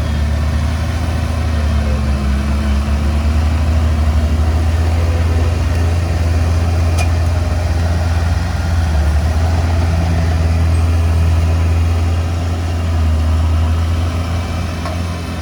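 Heavy diesel engine running steadily with a low drone that swells slightly a few times.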